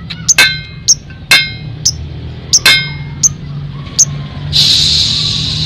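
Lovebird calls: a string of sharp, irregularly spaced single chirps, then about four and a half seconds in a continuous rapid chattering trill, the lovebird's long 'ngekek' song, with a steady low hum underneath.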